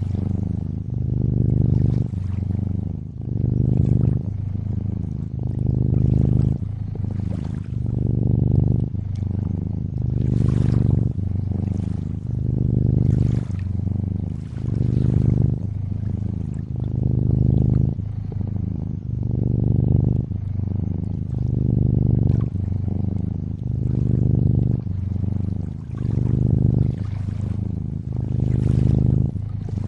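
Domestic cat purring close up, a low pulsing purr that swells and fades about every two seconds with each breath in and out, over the soft trickle and lapping of lakeside water.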